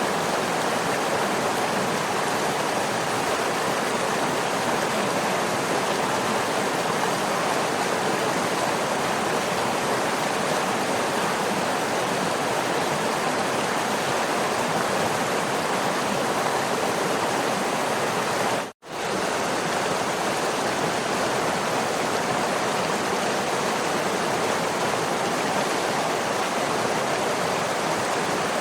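Waterfall rushing in a steady, even roar of falling water. It drops out for a split second about two-thirds of the way through, then resumes unchanged.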